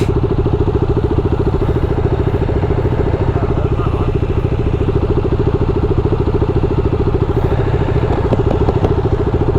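Triumph Daytona 675 three-cylinder engine running steadily at an even, unchanging speed, with a fast regular pulse from the exhaust.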